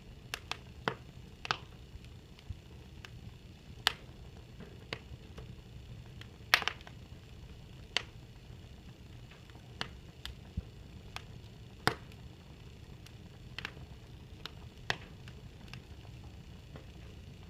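Fire crackling: irregular sharp pops, roughly one a second, some louder than others, over a faint steady low rumble.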